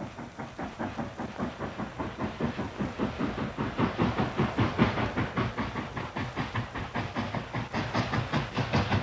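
Steam locomotive chugging: a steady rhythm of puffs, about four or five a second, growing louder as it approaches.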